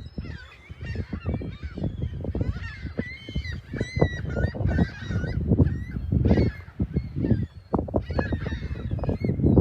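Many gulls calling at once, a dense chorus of short, overlapping cries, over Lake Michigan waves surging on the beach.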